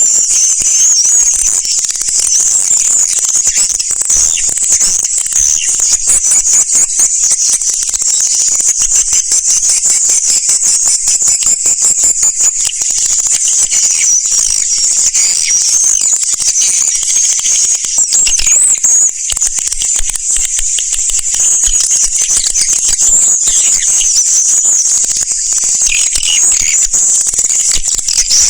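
Swiftlet calls: a dense, unbroken high twittering chatter of rapid chirps, the kind of call recording played to lure swiftlets into a nesting house.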